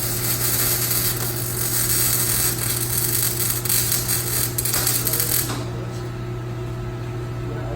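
Exhaust-shop work on a car's exhaust: a steady hiss with scattered metallic clinks and clicks, which stops about five and a half seconds in, over a steady low hum.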